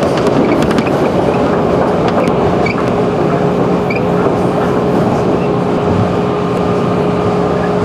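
A 211 series electric train running at speed, heard from inside the passenger car: a steady rumble of wheels on rail with a constant whine. A quick run of clicks comes in the first second.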